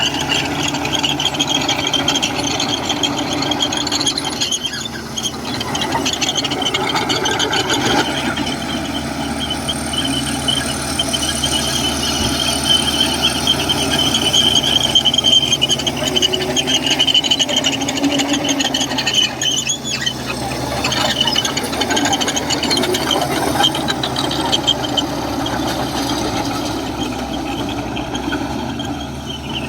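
Komatsu bulldozer working, its diesel engine running under a high, wavering squeal from the steel tracks, loudest partway through.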